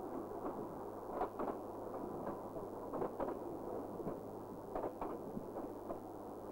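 Narrow-gauge steam train's coaches running past, with irregular knocks of the wheels over the rail joints above a rumbling run, and a steady low hum underneath.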